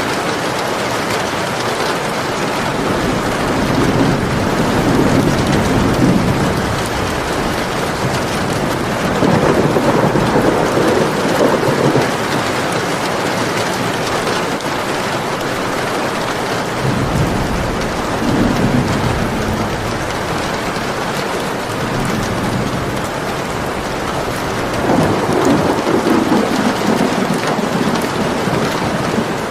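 Steady heavy rain hissing, with several rolls of thunder rumbling in and fading, the clearest about 4, 10, 18 and 26 seconds in.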